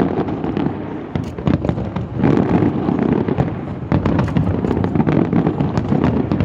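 Fireworks going off in a dense, continuous barrage of booms and sharp crackles, easing briefly about a second in and building again about two seconds in.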